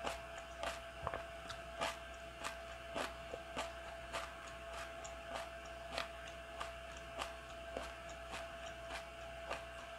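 Close-miked chewing of crunchy food with the mouth closed: a steady rhythm of soft crunches, a little under two a second. A faint steady hum runs underneath.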